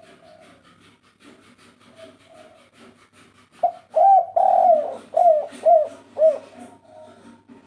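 Spotted dove (tekukur) cooing. Faint coos come first, then a loud phrase of about five coos starting about halfway through. A rapid run of faint ticks goes on behind it.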